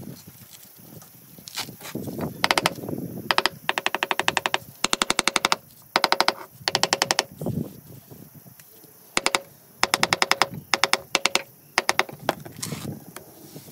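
Rapid hammering in short bursts of sharp, evenly spaced impacts, about fifteen to twenty a second, with a ringing note under each burst and brief pauses between them.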